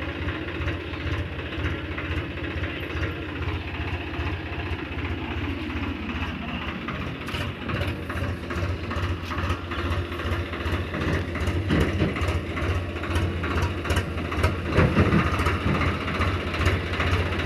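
Tractor engine running steadily with a low throb, with clattering rattles that grow busier in the second half.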